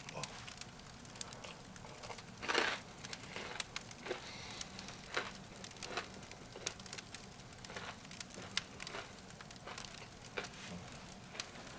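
Firewood crackling in a wood stove: irregular small pops and snaps, with one louder, longer burst of noise about two and a half seconds in.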